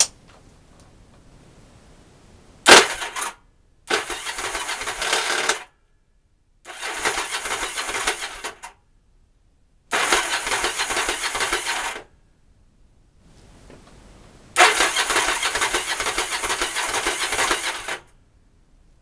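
Yamaha XV750 V-twin being cranked on its electric starter in five separate attempts, a short one and then four longer ones, the last about three seconds long, without the engine catching. The owner blames the failure to start on a clogged carburetor.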